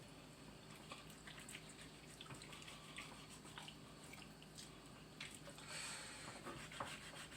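Near silence: room tone with faint scattered clicks and a brief faint hiss about six seconds in.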